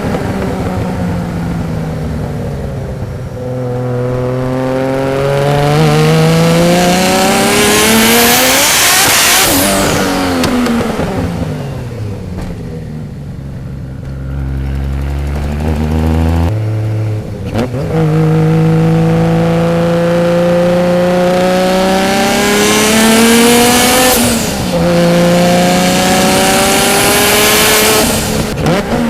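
A single-turbo RB26 straight-six in an R32 Nissan Skyline GT-R accelerating hard, its engine note rising steadily in pitch through the gears. The car sweeps past about nine seconds in and again near the end, with a quieter, steadier stretch between the runs.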